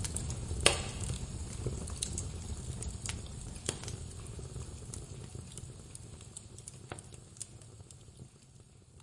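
Wood fire crackling in a fireplace: scattered sharp pops and snaps over a low rumble of the flames, the sharpest pop about a second in. The whole sound gradually fades out toward the end.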